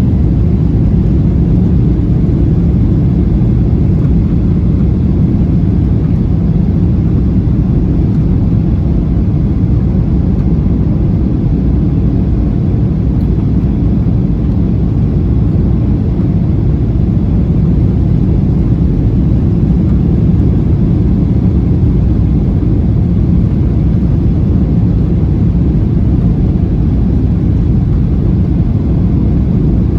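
Steady low rumble of a Boeing 737-800's engines and airflow, heard inside the passenger cabin during the approach, unchanging in level throughout.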